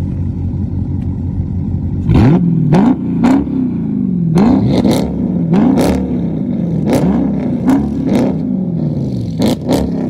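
Dodge Charger engine idling, then revved hard in about eight quick throttle blips starting about two seconds in, each rev rising and dropping back, with sharp exhaust pops and cracks as the revs fall.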